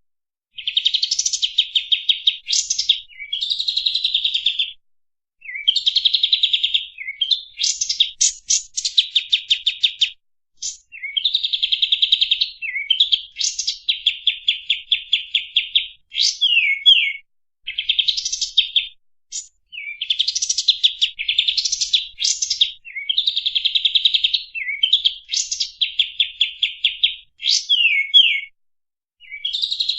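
Kapas tembak songbird singing loud, rapid, tightly packed trills in repeated phrases of one to two seconds with short pauses between them. Some phrases include quick upward-sweeping whistled notes.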